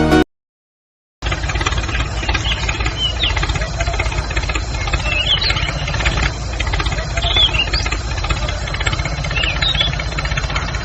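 Steady low engine-like rumble with a fast, even pulse, starting about a second in after a brief silence, with scattered short high chirps over it.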